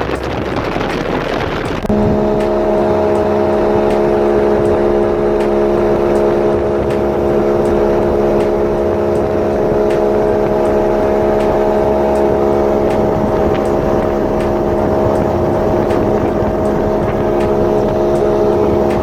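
Boat engine running at a steady speed: a constant drone that sets in suddenly about two seconds in, after a stretch of wind noise on the microphone.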